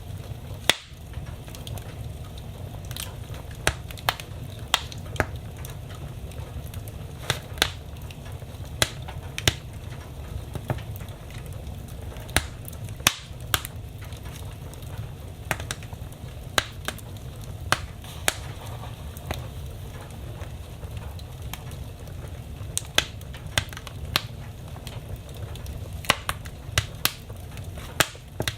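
Wood fire burning in a fireplace: sharp, irregular crackles and pops, a few louder snaps among them, over a low steady rumble of the flames.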